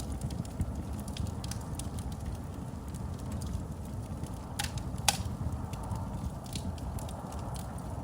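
Wood fire burning in a fireplace: a steady low rumble of flame with scattered crackles, and two sharper pops about halfway through.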